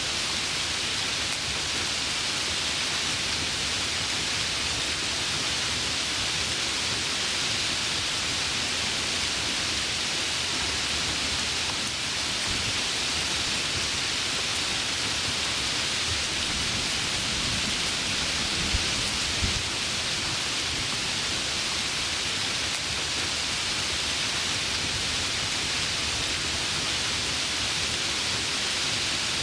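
Heavy rain falling steadily, with a low thunder rumble and two sharp cracks a little past halfway.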